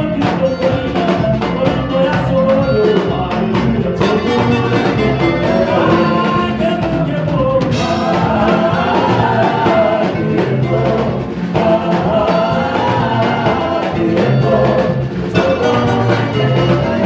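Live worship music: a band with bass, drum kit and keyboard or guitar playing a steady groove, with a singer's voice carrying the melody.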